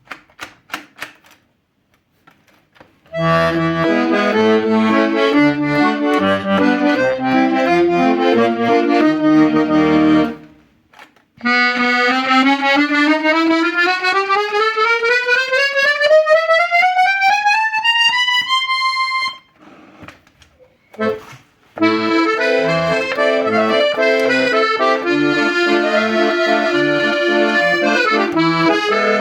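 Hohner Concerto I piano accordion being played: a few clicks, then chords over a bass line. Next comes a single-note scale climbing steadily over about two octaves, and then chords with bass again.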